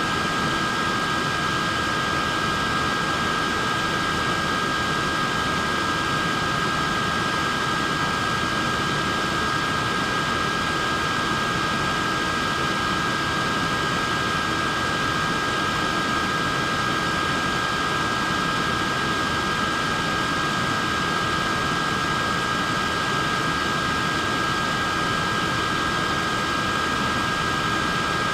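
Portable neck fan running steadily: an even rush of air with a steady high whine from its motor and blades.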